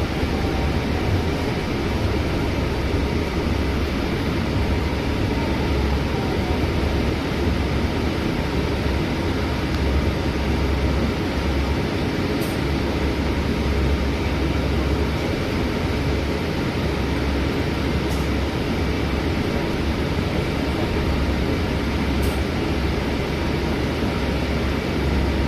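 Scania C250EB bus running along the road, heard from inside the cabin: a steady low engine rumble with road and tyre noise and a faint steady whine.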